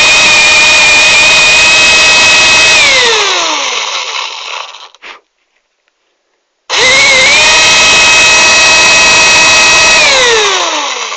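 14.4-volt cordless drill motor running flat out with a steady high whine, then released so it spins down with falling pitch. After a short silence it starts again, runs for about three seconds and spins down once more.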